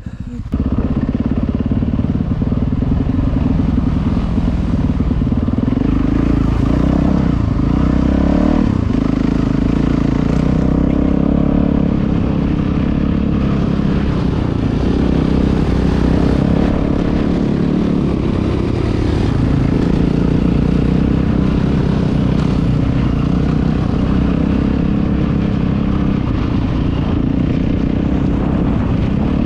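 Four-stroke single-cylinder Yamaha dirt bike engine running loud and steady.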